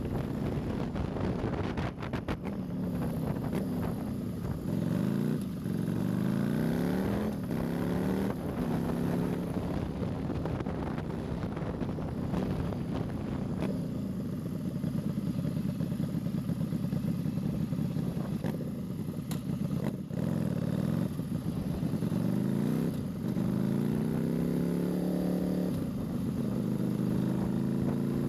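Harley-Davidson Nightster 1200's air-cooled V-twin running on the move. Its pitch climbs and drops several times as it accelerates through the gears, about five to nine seconds in and again near the end, over a steady rush of wind noise.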